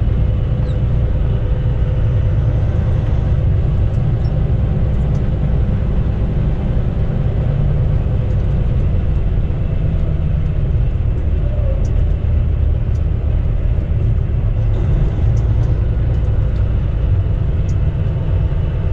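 Steady low rumble of a semi-truck's engine and road noise heard inside the cab, with a faint steady hum above it.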